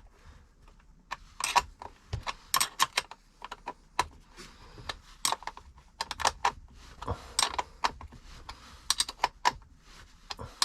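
12 mm spanner tightening a leisure battery's hold-down bolt: irregular sharp metal clicks and taps, several in quick clusters, as the spanner is worked round in short strokes.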